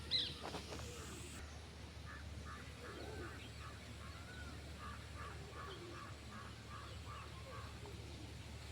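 Birds calling: a sharp, high cry just after the start, then a long run of short notes repeated about twice a second, over a steady low hum.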